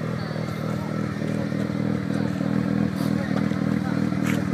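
Mazda RX-7's rotary engine idling steadily, with a couple of short clicks about three seconds in and near the end.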